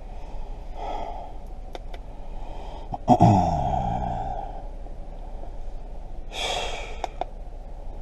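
A person breathing out heavily and sighing three times, the middle sigh voiced and falling in pitch, with a few small sharp clicks in between.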